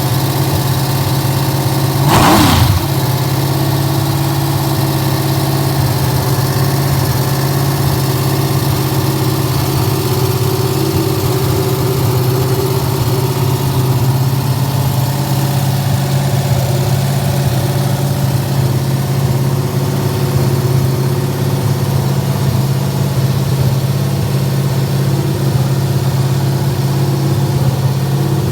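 Rebuilt Ford 289 small-block V8 with a .512-lift cam running steadily at a fast break-in idle, with one brief louder surge whose pitch drops away about two seconds in.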